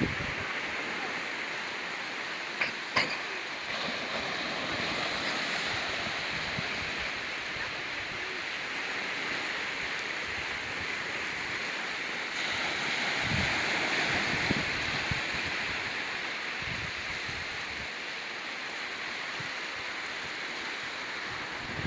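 Ocean waves washing over a rocky beach, a steady hiss of surf that swells about two-thirds of the way through. Two sharp clicks about three seconds in, and a few low thumps later on.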